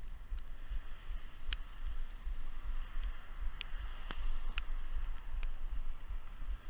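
Wind buffeting the microphone of a handlebar-mounted action camera while riding a bicycle in the rain, over a steady hiss like wet tyres on the road. A few sharp clicks stand out, about one and a half, three and a half, and four and a half seconds in.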